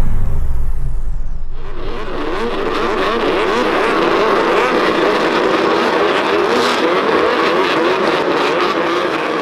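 A falling sweep fades out in the first second and a half. Then a pack of racing snowmobiles' engines runs at full speed, many tones wavering over one another.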